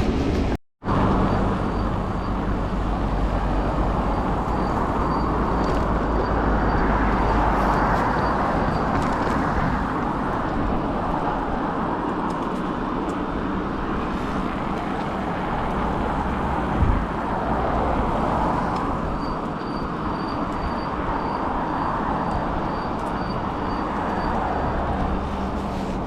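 Steady rumbling noise of a vehicle on the move, with rushing noise over the microphone, broken by a brief dropout under a second in and a single thump near the middle.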